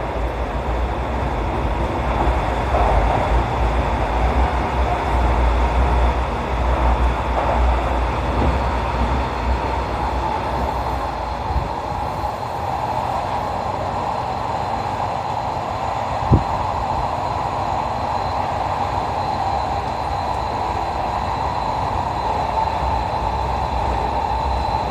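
Kyoto Municipal Subway Tozai Line 50 series train, an older car with its original Mitsubishi GTO inverter, running through the tunnel as heard from inside the car. It is a steady rumble of wheels and car body, heavier in the first half and easing off about halfway through, with one short knock about 16 seconds in.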